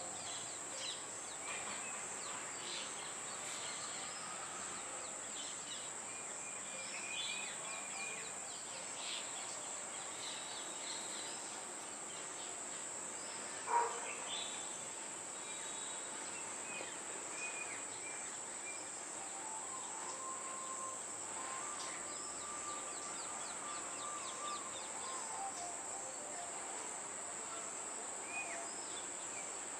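Outdoor ambience: a steady high-pitched insect drone with scattered short bird chirps and calls over it, and one brief sharp sound about halfway through that is the loudest moment.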